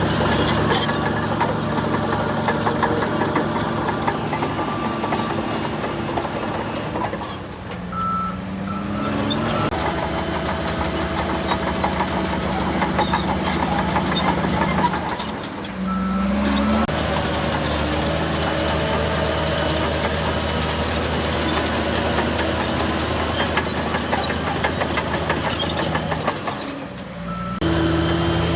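Diesel engines of heavy earthmoving machinery running steadily, with the engine pitch rising briefly twice. The sound changes abruptly about a quarter, half and nine-tenths of the way through.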